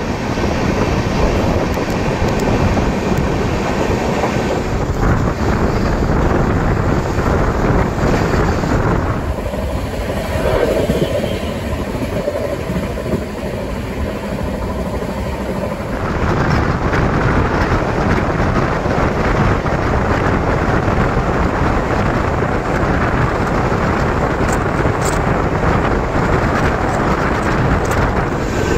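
Express train running, heard from inside a passenger coach: a steady rumble and rattle of the wheels on the rails. For several seconds in the middle the sound turns quieter and duller, then comes back.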